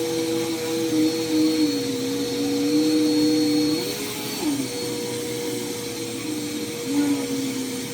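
Vacuum cleaner running as it is worked over the dining-room floor, a steady motor hum with a second tone that wavers in pitch, rising briefly about four seconds in and dropping back.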